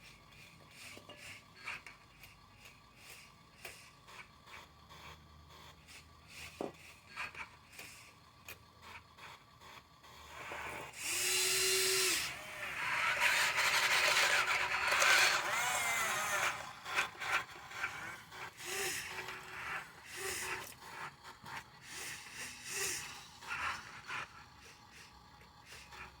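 Small electric motor and gears of a radio-controlled model dump truck whirring for about five seconds near the middle, its pitch wavering, amid light clicks and rattles.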